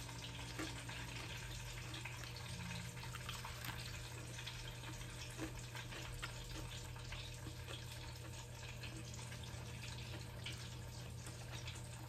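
Faint chewing of a crispy breaded fish fillet: small scattered crunches and ticks over a steady background hiss and low hum.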